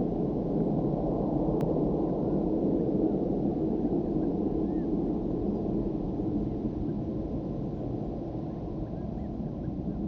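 Jet airliner engines: a loud, steady roar that fades slowly, typical of an aircraft departing.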